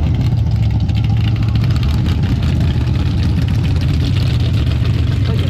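Mega truck engine running steadily with a deep, even low drone.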